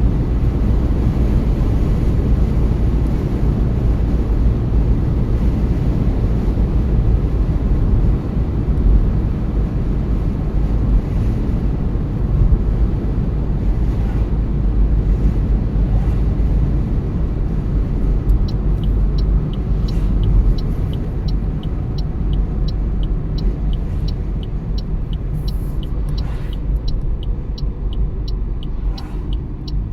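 Car driving, a steady low road and tyre rumble. From about two-thirds of the way in, a regular ticking joins it, just under two ticks a second, like a turn-signal indicator.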